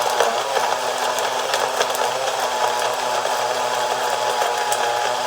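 Electric blender running steadily with an even motor hum, blending ice cream and milk into a milkshake.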